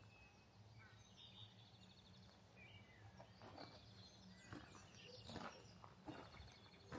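Faint small-bird chirps and a quick high trill, then footsteps crunching in snow at a walking pace, over a faint steady low hum.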